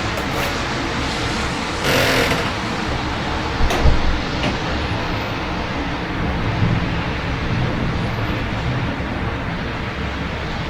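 Steady rain with the hum of city traffic. There is a brief swell about two seconds in, and a short sharp knock with a low thud a little before four seconds in.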